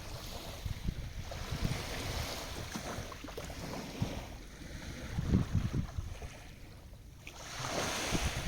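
Sea waves washing in, swelling a little after the start, dying away about seven seconds in and rising again near the end, with wind buffeting the microphone.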